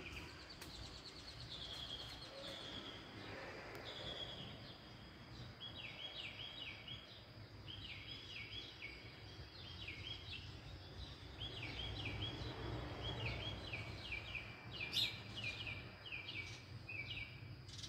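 Birds chirping outdoors: many short, quick calls repeated in small groups, over a steady low background rumble.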